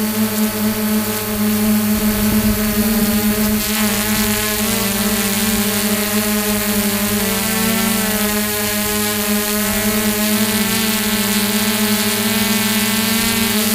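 Quadcopter drone's electric motors and propellers running with a steady buzzing whine, its pitch shifting slightly a few times as the throttle changes.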